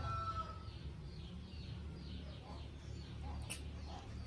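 Birds chirping in the background: a quick run of short, falling chirps over a low steady rumble, with one sharp click near the end.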